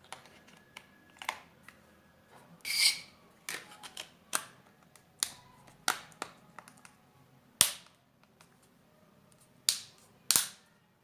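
Plastic clicks and snaps from a Jio feature phone being put together by hand, with its battery pressed in and the back cover snapped into place. There is a short scrape about three seconds in, and the sharpest snaps come near the end.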